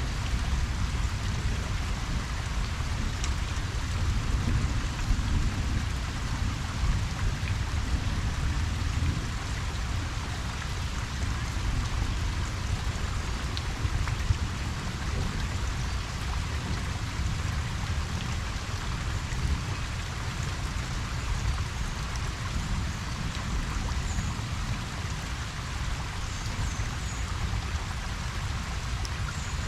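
Steady rain pattering on a pond surface, with a continuous low rumble underneath.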